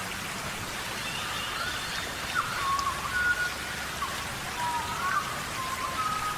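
Steady tropical rain falling in a rainforest, an even hiss. Over it comes a series of short whistled calls, some held level and some gliding up or down.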